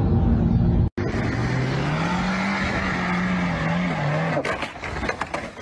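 A car engine revving hard, its pitch rising and holding, with the wheels spinning in mud. The revving drops off about four and a half seconds in, followed by a few knocks. Before this, about a second of engine and road noise from inside a moving car cuts off abruptly.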